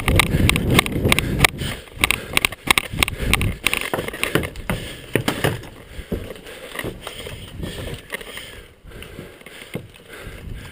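Close-up rustling and handling noise with many irregular clicks and knocks, loudest in the first few seconds and then thinning out.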